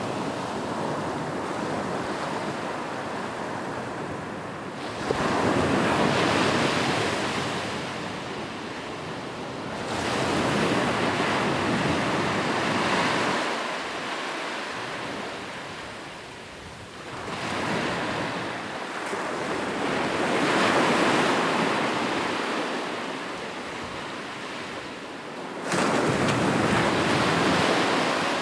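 Sea waves breaking and washing up on the shore, in about four long swells of surf that rise and fall. The last swell arrives suddenly near the end.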